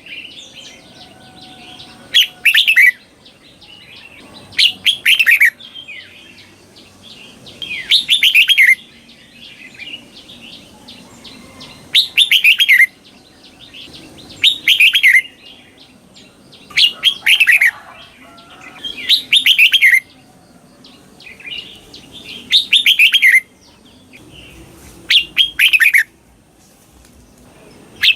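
Red-whiskered bulbul singing short, loud, falling phrases about every two to three seconds, many given as a quick double. This is the 'double' song style (เบิ้ล) played to teach caged bulbuls.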